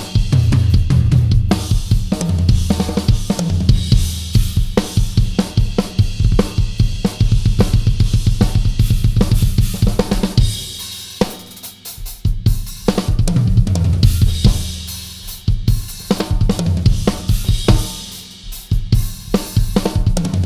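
Yamaha Absolute Hybrid Maple drum kit being played: bass drum, snare, hi-hat and cymbals, with ringing tom strokes. The playing eases off briefly twice, around the middle and near the end.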